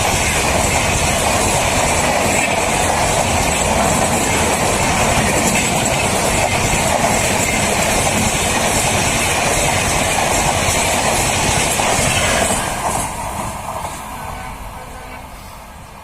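Humsafar express train rushing past at full speed, a loud steady rush of coaches running over the rails. About twelve seconds in the sound drops away sharply as the last coach passes, then fades off.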